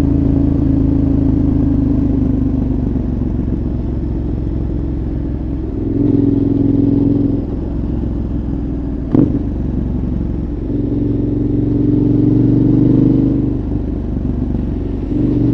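2014 KTM 1190 Adventure's V-twin through a Giannelli exhaust, heard onboard, running at fairly low revs with the throttle opened three times for a few seconds each. A single sharp click sounds about nine seconds in.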